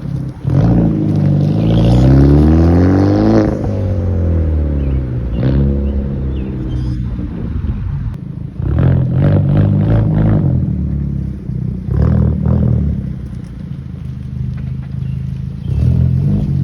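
Turbocharged four-cylinder of a Hyundai Genesis Coupe 2.0T through a Tomei titanium single exhaust, revving hard. The pitch climbs for about three seconds and falls away, then comes a shorter rise and a run of quick throttle blips in the second half.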